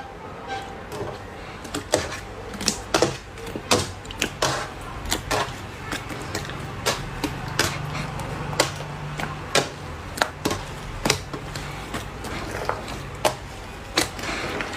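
Slime being pressed and squished by hand, giving a run of sharp, irregular pops and clicks, roughly two a second.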